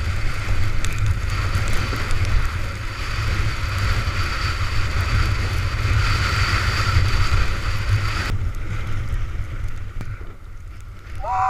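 Strong storm wind buffeting the microphone over a steady rush of water, in hurricane-force conditions. About eight seconds in, the hiss thins out and it gets a little quieter.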